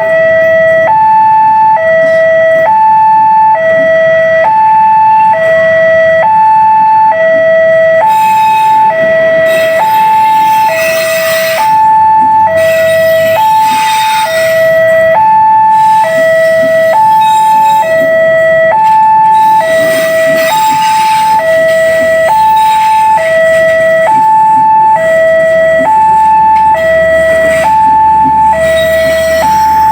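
Railway level-crossing warning alarm sounding a steady two-tone hi-lo signal, switching pitch about once a second. Noise swells up now and then, and a low rumble comes in during the last third.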